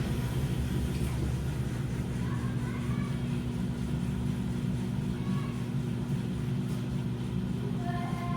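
Washing machine running with a steady low hum and rumble, its motor giving a constant tone.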